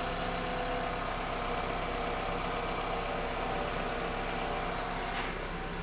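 Car engine idling steadily, with a steady tone over it that stops about five seconds in.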